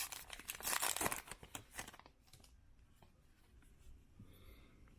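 A baseball card pack's wrapper being torn open and crinkled, a crackly tearing that lasts about two seconds and then gives way to faint handling ticks.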